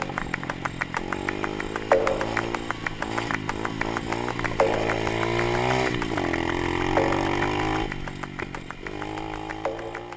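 Small 125cc four-stroke dirt bike engine running close by, revved up and settling back several times, about two, four and a half and seven seconds in, with a rapid rattly pulse between.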